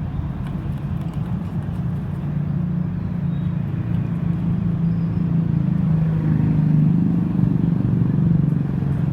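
A motor vehicle engine running steadily with a low hum, growing a little louder about six seconds in.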